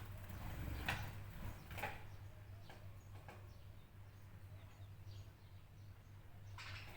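Birds chirping: short separate calls, a few in the first half and a longer one near the end, over a faint steady low hum.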